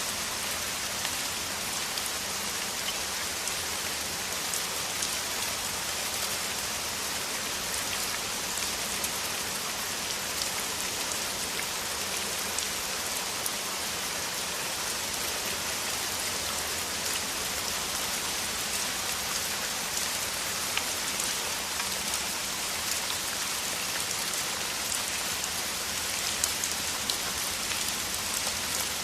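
Heavy rain in a steady downpour: a continuous hiss of rainfall with many individual drops ticking sharply on top.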